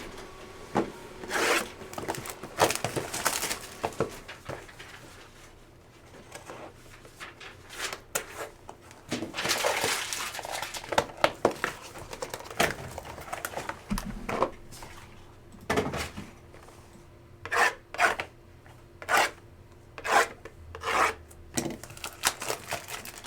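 A Topps Museum trading card box and pack being opened and handled by hand: cardboard and wrapper rubbing and scraping, with scattered clicks and short swishes. There is a longer rasping stretch about ten seconds in, and a run of short, separate swipes in the last third.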